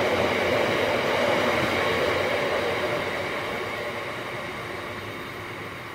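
Bogie aggregate hopper wagons rolling past on the rails, a steady rumble of wheels on track. From about halfway through it fades away as the end of the train draws off.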